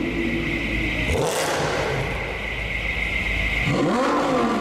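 Sports car engine rumbling at low revs in slow traffic, then revved up and back down near the end. A brief rushing burst comes about a second in.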